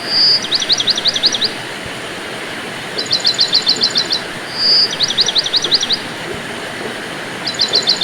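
A songbird repeats one phrase about every four seconds: a fast trill of about ten notes, a short whistled note, then a second trill of downslurred notes. Under it runs a steady hiss of rain.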